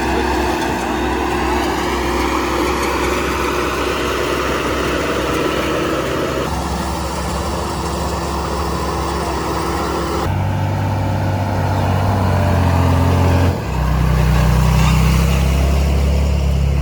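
Diesel engine of heavy earthmoving machinery running steadily. Its note changes abruptly a few times, about a third of the way in, past halfway and near the end.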